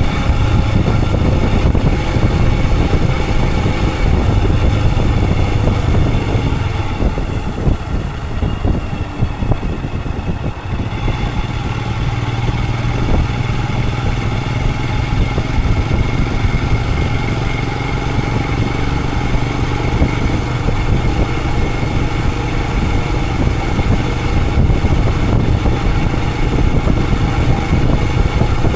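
Royal Enfield Himalayan 411's single-cylinder engine running under way. The sound drops and thins for a few seconds about a quarter of the way in, then picks up again.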